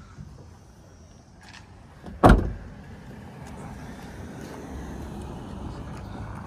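A car door slammed shut with a single heavy thump about two seconds in, followed by a steady low rumble.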